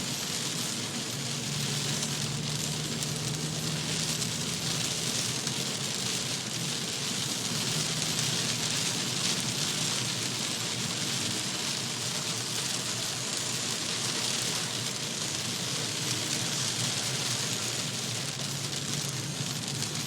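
Torrential rain pouring down in a steady, dense hiss, with a faint low hum underneath.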